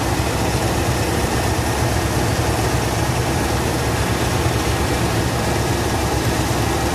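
1970 Chevy C10 truck engine idling steadily on its newly fitted distributor, just brought back to running after a long no-start.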